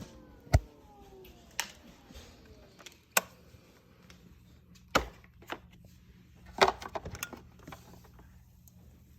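Scattered handling clicks and knocks, about five sharp ones at irregular intervals, with the vacuum's motor off.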